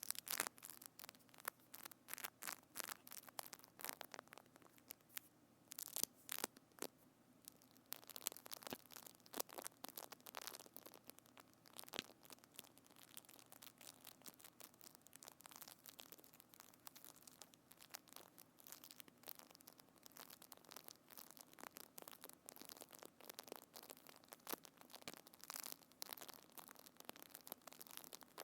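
Dense, irregular crackling and sticky popping as a soft tactile material (slime or floam) is squeezed and handled right at a binaural microphone, quiet, with no steady rhythm.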